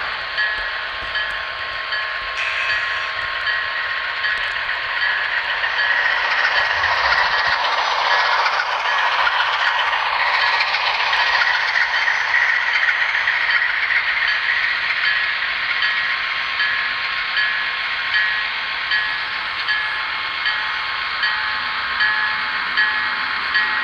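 Train running along the track: a steady rushing hiss, with evenly spaced clicks in the second half, plainest near the end, as of wheels passing rail joints.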